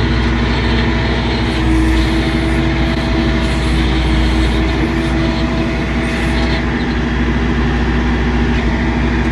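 Tractor engine running steadily with a low rumble while it works a dirt pile.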